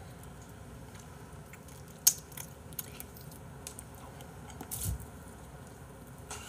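Teeth gnawing and scraping cartilage off a chicken drumstick bone: small clicks and scrapes, with one sharp click about two seconds in and a short crunch near five seconds.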